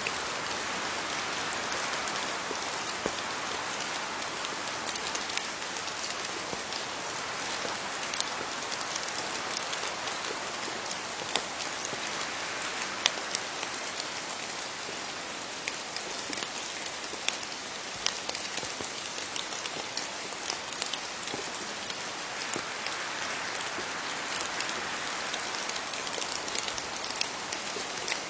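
Steady rain falling on leaves, with many individual drops ticking sharply through an even hiss.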